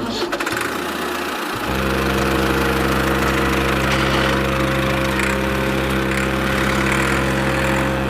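Tractor engine sound, a steady low idle that comes in about two seconds in and holds without change, over a constant hiss of background noise.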